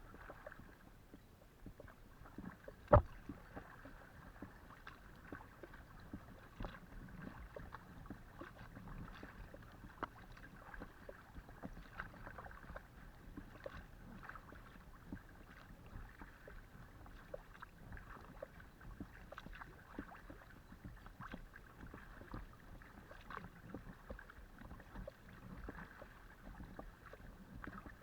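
Kayak paddling: repeated small splashes and drips as the paddle blades dip into and leave the water, with a single sharp knock about three seconds in.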